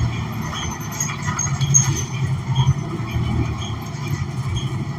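Interior sound of a New Flyer XN40 city bus: the Cummins Westport ISL G natural-gas engine running with a steady low hum, mixed with small rattles and clicks from the cabin.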